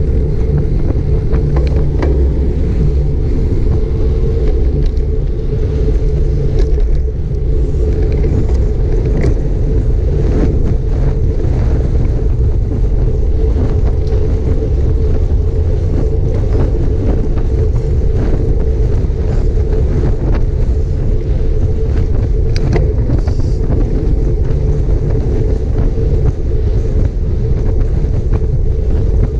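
Wind buffeting a GoPro Hero 5 Black's microphone on a moving bicycle: a loud, steady low rumble, with scattered light clicks.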